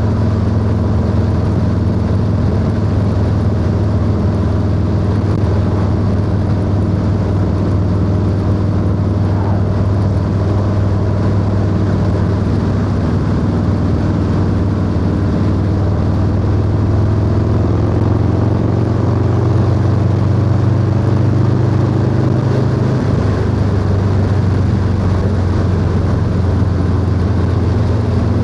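Harley-Davidson Low Rider S V-twin running at steady cruising speed. Its note climbs a little, then drops suddenly about two-thirds of the way through.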